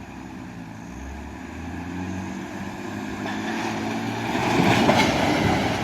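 A vehicle engine running and growing steadily louder, loudest about five seconds in, where a rushing noise joins it before it fades.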